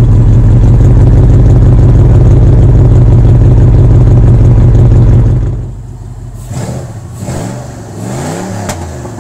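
Cadillac Northstar 32-valve V8 running with its entire exhaust removed, no catalytic converter or mufflers: a loud, steady, unmuffled idle. About five and a half seconds in the sound drops to a much quieter engine sound whose pitch rises and falls a few times.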